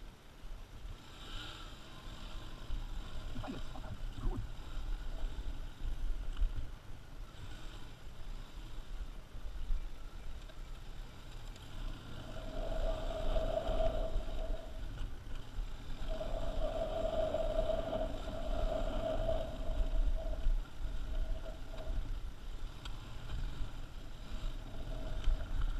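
Motorcycle riding over rough off-road ground, its engine running with a steady note that rises and fades between about twelve and twenty seconds in, under heavy wind rumble on the microphone.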